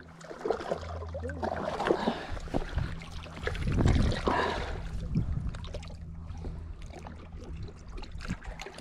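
Water splashing and trickling as a just-caught bass is dipped into lake water by hand, loudest about four seconds in.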